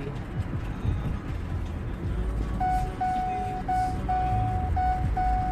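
Car seatbelt warning chime starting about halfway through: a steady beeping tone repeating about twice a second, over the low road rumble inside the moving car. It signals an unfastened seatbelt.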